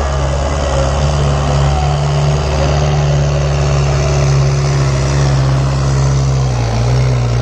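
Tractor diesel engine running steadily under load, a loud constant drone that shifts slightly in pitch near the end.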